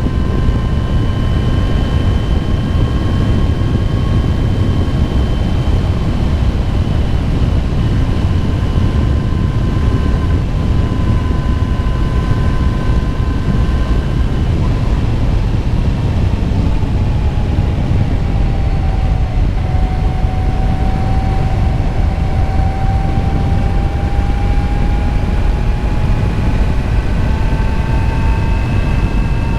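Motorcycle riding along at a steady pace, heard as heavy wind rumble on the rider's microphone with a thin whine from the bike; the whine drops in pitch around the middle and climbs slowly again near the end.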